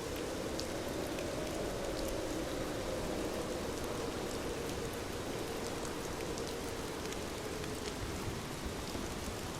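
Steady rain falling on a window pane, a constant even wash with faint scattered ticks of drops.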